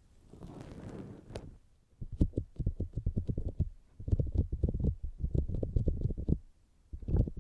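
Fingertips tapping rapidly on the outer ear of a binaural microphone, dull low thuds many times a second in three runs with short pauses between. Before the tapping starts, about two seconds in, there is a brief soft rustle of a cotton swab in the microphone's ear.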